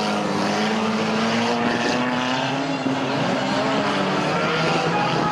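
Engines of several banger racing cars running and revving together around the track, several overlapping pitches slowly rising and falling.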